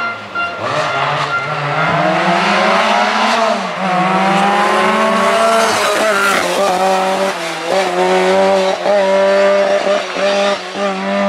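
Group B rally car engine under hard acceleration. The revs climb steadily over the first few seconds, then the note holds high, and in the second half it dips and picks up again several times in quick succession as the car shifts gear.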